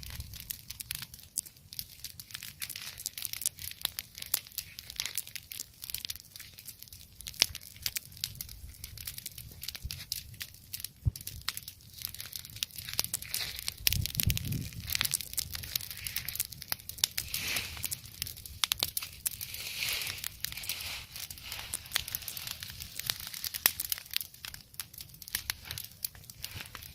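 Leaf bonfire crackling and snapping, with many small sharp pops throughout. A brief low rumble about halfway through.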